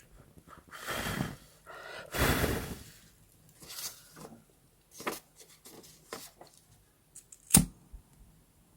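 Paper and stationery being handled at close range: two rustling sweeps, then a few light taps and one sharp click near the end.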